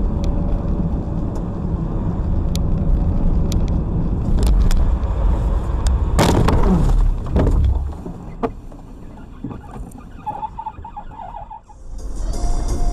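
Road and engine noise of a car on the move, a steady low rumble, with a loud sudden noise about six seconds in that falls in pitch over about a second. The sound drops much quieter about eight seconds in.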